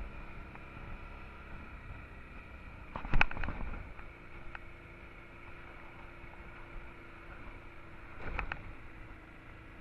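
Honda Transalp XL 650's V-twin engine running under way, with steady road and wind noise. Sharp knocks break in about three seconds in, the loudest moment, and again near the end.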